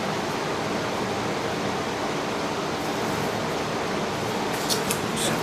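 Steady, even hiss with no clear pitch, with a few light clicks near the end.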